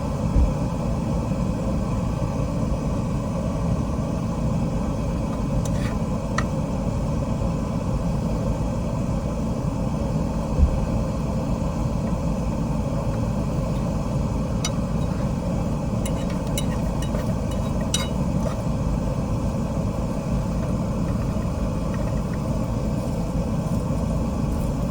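Small gas camp stove burner running with a steady rumble under a frying pan of bologna and onions, with a few faint pops as the pan begins to sizzle.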